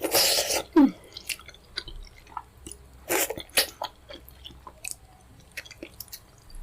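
Close-miked eating of fufu with pepper soup: wet chewing and mouth clicks, with a louder noisy burst at the start and another about three seconds in.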